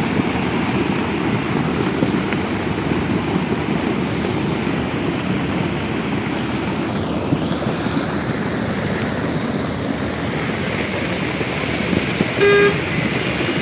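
Steady, loud rushing noise of wind and water, with a short pitched tone about a second before the end.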